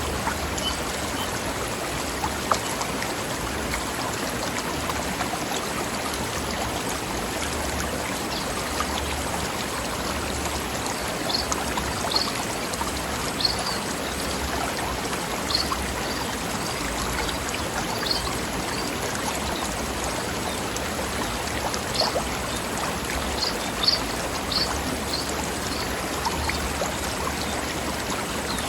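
Mountain stream running over rocks: a steady rush and bubble of water, with short high notes scattered over it from about eleven seconds in.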